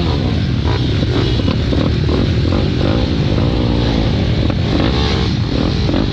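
Pit bike engines on a race track, revving up and down repeatedly as the bikes accelerate and shift.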